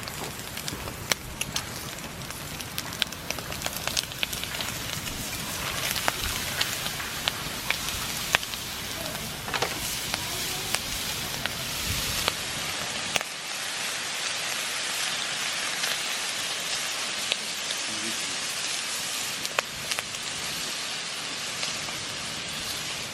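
Wood fire crackling with sharp pops, over a steady sizzling hiss of bacon frying in a pan on it; from about halfway the low rumble drops away and the frying hiss comes to the fore.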